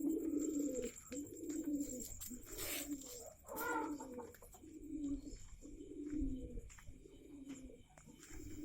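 Java pigeons cooing in their coop, one low coo phrase after another with hardly a break. A short rustle about three seconds in.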